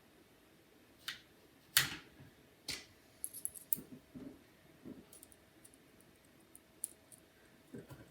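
Irregular small clicks and knocks of laptop parts and small tools being handled, with one louder knock about two seconds in and a quick run of light clicks a little later.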